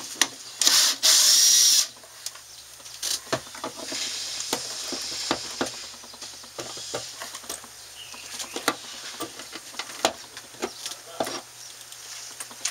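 Cordless screw gun with a square bit running for just over a second, backing out a panel screw, then scattered clicks and knocks as the screws and panel are handled.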